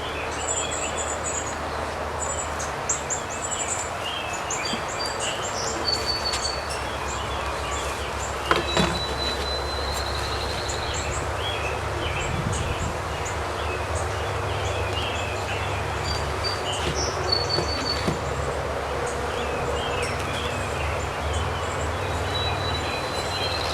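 Steady outdoor background noise with a low hum. Birds chirp in quick, repeated calls throughout, and there are a couple of light knocks, one about nine seconds in and one near eighteen seconds.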